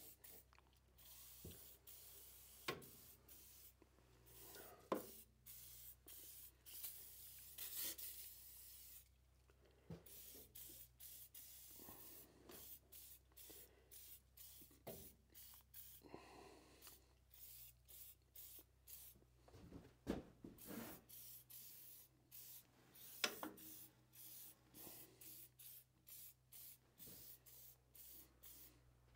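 Faint, quick hand-scrubbing strokes on the rusted metal of an old Craftsman radial arm saw as rust is rubbed off, with a few sharp knocks between strokes.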